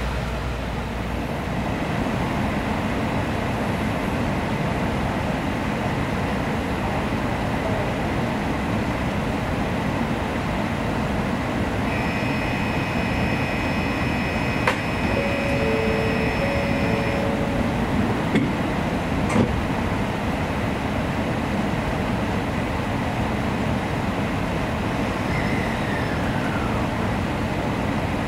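Steady hum and hiss inside a Shinkansen car standing at a station platform. Near the middle come a few seconds of electronic tones, and two sharp clicks follow about five seconds apart.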